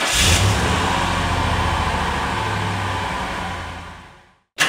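Car engine starting: the tail of the starter cranking, then the engine catches with a short rev about half a second in and settles into a steady idle. The idle fades out near the end, and a moment later a sharp click begins the same start again.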